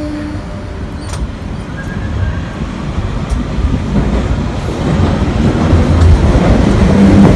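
Electric multiple unit moving off past the platform end. Its rumble and wheel noise on the rails grow steadily louder as it gathers speed, after the last of a single-note horn blast dies away at the very start.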